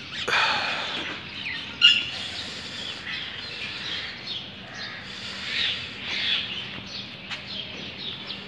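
Birds chirping and calling, many short high chirps and quick sliding calls. A single sharp click about two seconds in.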